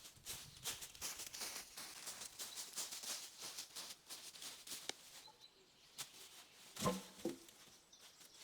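Dense crackling rustle for about five seconds, then two dull knocks about seven seconds in.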